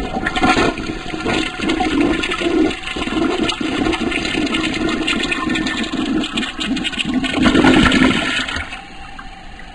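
Rushing, churning water, loud for about eight and a half seconds, then dropping to a quieter rush near the end.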